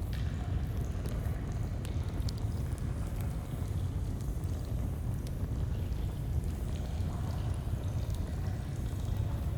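Flowing stream running steadily with a low rush, with the scattered sharp pops and crackles of a campfire over it.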